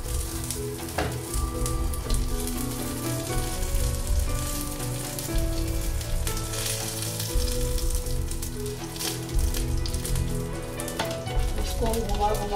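Bread sandwich shallow-frying in hot oil with mustard seeds and curry leaves, sizzling steadily on high heat.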